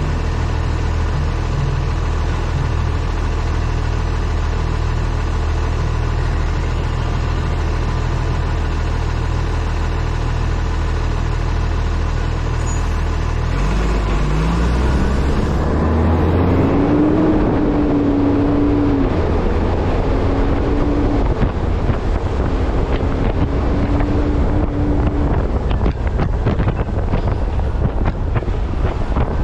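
Refuse truck's diesel engine idling steadily, then about halfway through revving up and pulling away, its pitch rising and stepping down and up again through gear changes. Wind and road noise on the front-mounted camera build up as it gets moving.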